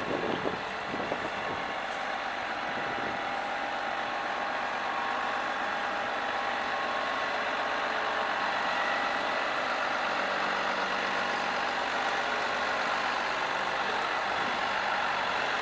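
Heavy diesel vehicle engine running steadily, at an even, unchanging level.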